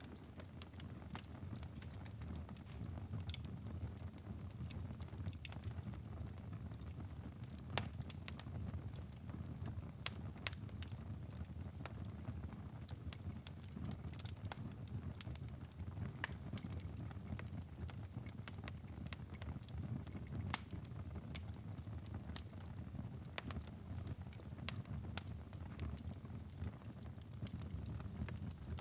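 Fire in a fireplace crackling: a steady low rumble of flames with irregular sharp pops and snaps, one louder pop a little past two-thirds of the way through.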